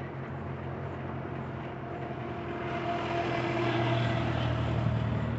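A motor vehicle's engine hum, steady in pitch, growing louder about two seconds in and easing off near the end, as a vehicle passes.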